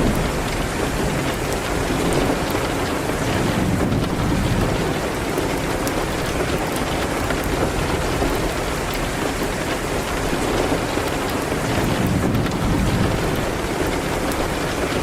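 Steady rain hitting a window, with a low rumble that swells and fades twice.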